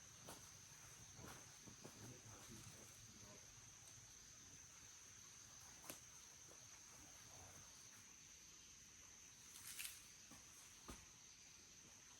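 Faint forest ambience: insects holding one steady high-pitched drone, with a few soft rustles and three brief snaps or crackles.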